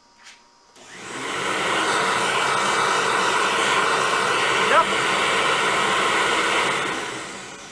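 Hercules dual compound miter saw's motor starting up and spinning to full speed, running steadily for about five seconds with a brief sharp sound about halfway through, then winding down near the end.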